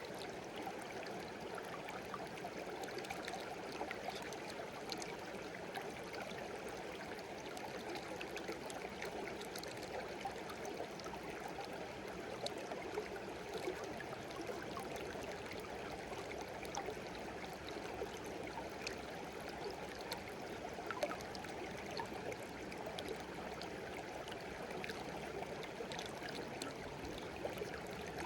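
A shallow stream running steadily, with many small splashes and trickles over the rocks.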